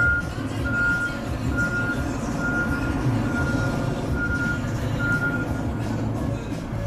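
Case tractor reversing, its backup alarm beeping about once a second over the engine running; the beeping stops a little after five seconds in.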